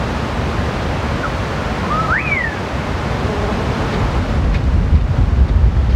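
Wind on the microphone: a steady rushing noise with a low rumble. About two seconds in, a bird gives one short whistle that rises and then falls.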